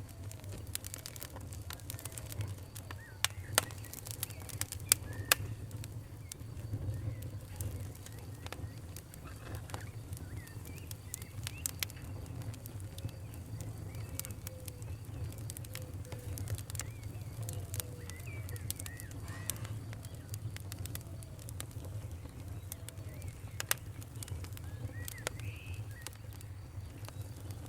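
Campfire burning with a steady low rumble and irregular sharp crackles and pops, the loudest a few seconds in, under faint chirping birds.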